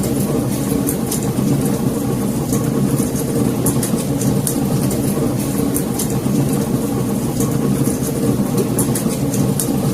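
Wood fire in a fireplace crackling: a steady low rumble of burning with frequent sharp, irregular crackles and pops from the wood.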